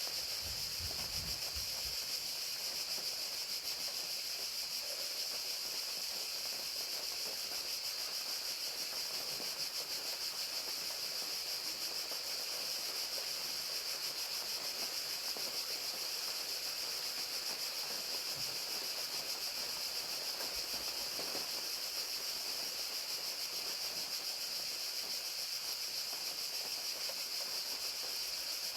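Chorus of crickets chirping continuously in a high, fast-pulsing steady trill, over the even hiss of falling rain. A brief low rumble sounds near the start.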